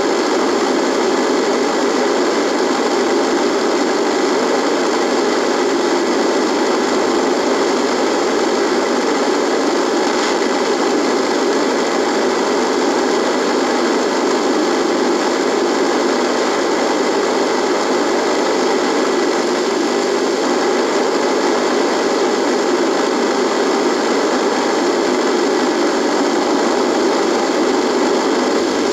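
Radio giving out a steady buzzing static noise, even and unchanging, with faint steady tones running through it.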